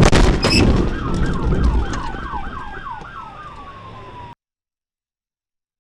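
Police car siren going from a slow wail into a fast yelp, then falling back into a slow wail, over loud vehicle rumble. Two sharp knocks come at the start, and all sound cuts off suddenly a little over four seconds in.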